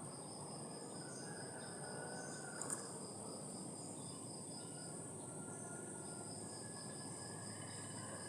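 Faint ambience of insects trilling steadily at a high pitch, with a few faint distant bird notes and one small tick a little under three seconds in.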